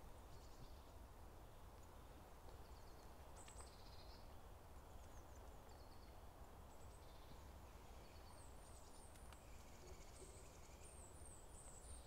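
Faint, thin calls of small birds: scattered short high chirps, then a quick run of repeated high notes over the last few seconds. A low steady rumble lies underneath.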